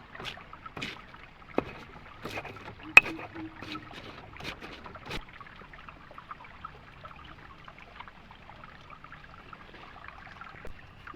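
Water splashing and sloshing, with a string of sharp knocks or splashes over the first five seconds, the loudest about three seconds in, then settling to a quieter trickling wash.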